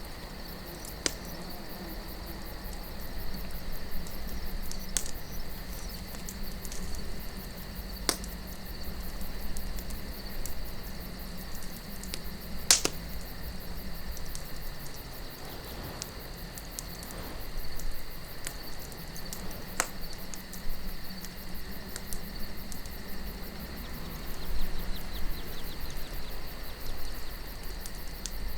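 Wood campfire crackling, with scattered sharp pops, the loudest about halfway through, over a soft low wind and a steady high-pitched trill.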